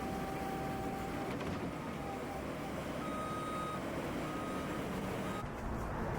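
Low, steady traffic rumble with a vehicle's electronic warning beeper sounding three times in the second half, each beep shorter than the one before.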